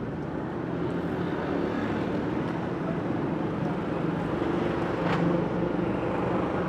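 Street ambience dominated by a steady motor-vehicle engine drone that grows slightly louder, with a single brief sharp click about five seconds in.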